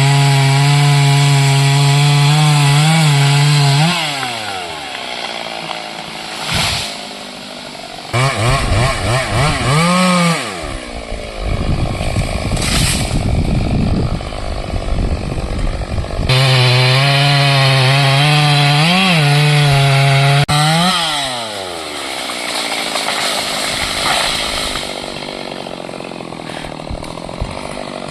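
Stihl MS 382 two-stroke chainsaw running at full throttle, then dropping back to idle about four seconds in. It is blipped near ten seconds, goes rougher and noisier for a few seconds, and is held at full throttle again before falling back to idle about twenty seconds in.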